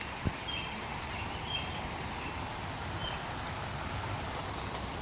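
Steady outdoor background noise with a bird giving short, high chirps about once a second. There is a single soft tap just after the start.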